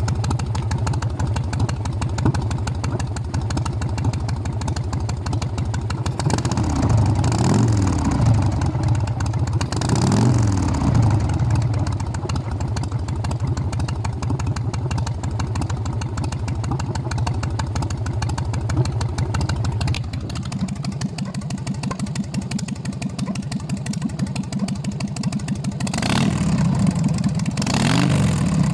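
Harley-Davidson Sportster's air-cooled V-twin running through short drag pipes: a steady idle, with the throttle blipped twice in the first half. The idle shifts about two-thirds of the way through, and the throttle is blipped twice more near the end.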